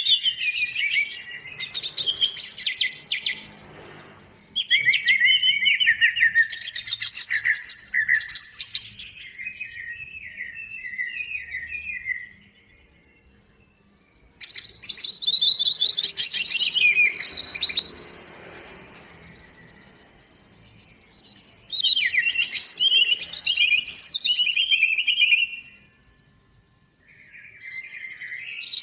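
Cucak ijo (greater green leafbird) singing a long, varied song stuffed with mimicked phrases of other birds. It comes in bouts of rapid, high chirping and warbling, with short pauses between them.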